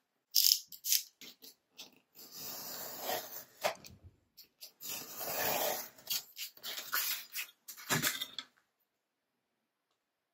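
Paper craft work being tidied up: a few sharp taps and clicks, then two rubbing or scraping stretches of about a second each against paper, more taps, and silence near the end.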